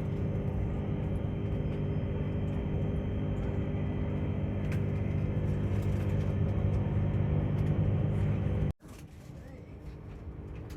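Tilt Train running noise: a steady low rumble with a humming drone. It cuts off abruptly about nine seconds in, leaving a much quieter background.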